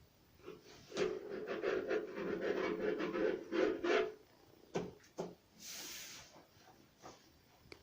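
Wallpaper rustling and rubbing as it is pressed and smoothed onto the wooden cabinet, a dense scratchy sound for about three seconds, followed by two light knocks and a short hiss.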